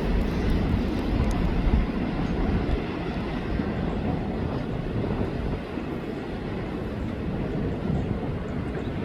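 Container freight train rolling past on the rails: a steady rumble of wagon wheels on track that eases a little over the first few seconds, then holds.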